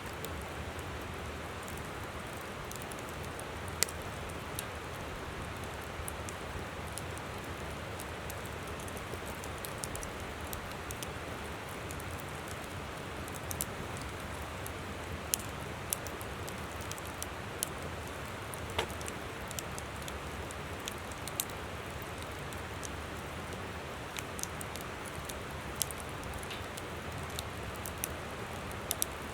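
Wood campfire crackling, with sharp irregular pops over the steady rush of a flowing river.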